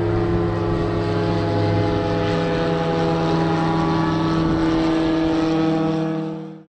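SeaRey LSX amphibian's engine and propeller running at a steady speed, an even drone that cuts off suddenly at the end.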